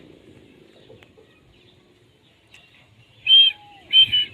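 Parrot calling: two short, loud, high-pitched squawks close together near the end, after a quiet stretch.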